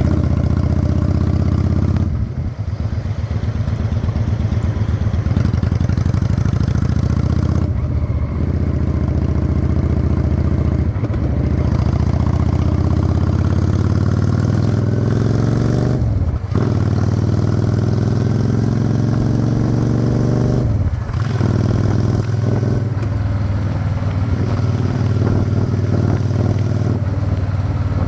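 Honda Shadow 600's V-twin engine pulling the motorcycle along. Its note climbs steadily as it accelerates and drops sharply at two gear changes, about halfway through and again about three quarters through, with a few brief throttle lifts earlier on.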